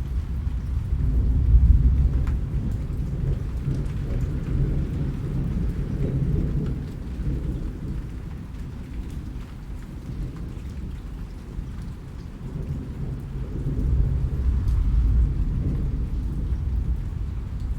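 Steady rain with rolling thunder, a deep low rumble that swells about a second in and again near the end.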